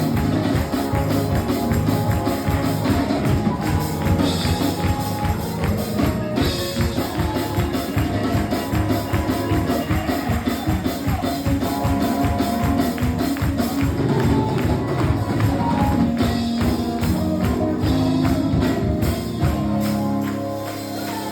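Church band music with a tambourine shaking a steady beat over sustained instrument notes.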